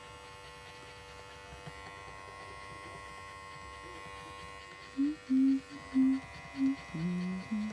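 Electric dog clippers running with a steady buzz as they are touched to a young puppy's feet. In the last few seconds, a run of about six short, low, loud calls rises over the buzz.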